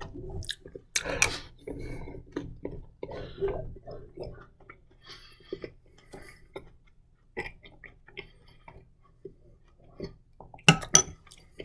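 A person chewing a bread bite dipped in mustard, with wet mouth noises and small clinks of a spoon against a bowl, and a few sharper clinks near the end.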